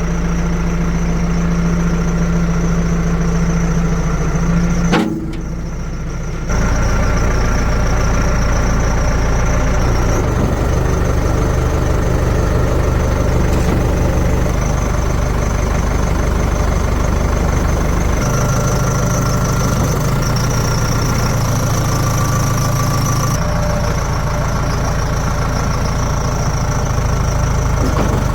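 Heavy diesel machinery engines running steadily, the engine note changing abruptly several times, with a short drop in level about five seconds in.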